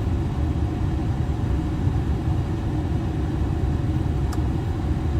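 Steady low rumble inside the cab of a 2016 Ford F350, its 6.7-litre Powerstroke V8 turbodiesel idling with the air conditioning running. A faint click about four seconds in.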